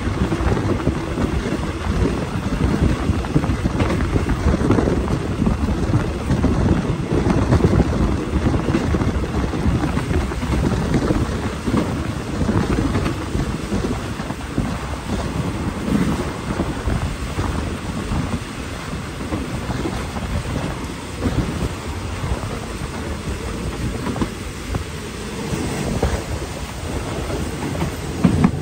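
Passenger train carriage running along the track, heard from an open window: a steady low rumble of wheels on rails with wind buffeting the microphone.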